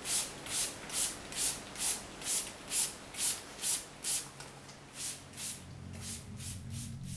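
Rhythmic rasping strokes, about two a second, like something rubbed back and forth on a rough surface, fading out about two-thirds of the way through. Near the end, low sustained music with gong-like tones comes in.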